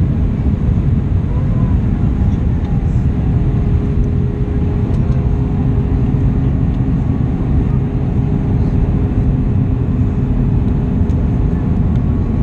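Steady cabin noise inside an Airbus A320 airliner in flight: a loud, even low rumble of engines and rushing air, with a steady hum running through it.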